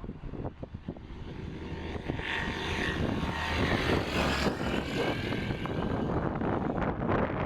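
Light propeller aircraft's engine running at power, growing louder over the first few seconds and then holding, with wind buffeting the microphone.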